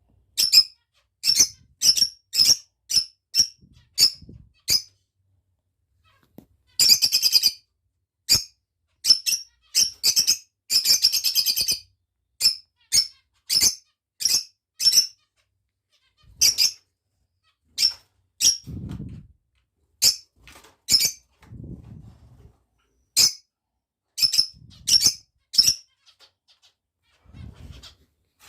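Lovebirds (small parrots) calling: repeated short, sharp, high-pitched chirps, mostly single and spaced out, with a few quick runs of chattering. Soft low thumps come in now and then in the second half.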